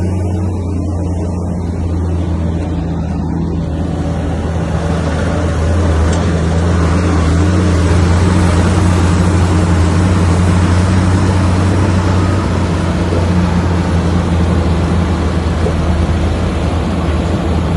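Heavy earthmoving machine's diesel engine running steadily under work, with rougher mechanical noise building from about four seconds in and at its loudest in the middle.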